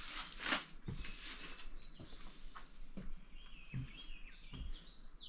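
Small birds chirping in short falling notes, over a few soft footsteps and a brief rustle of brush in the first second and a half.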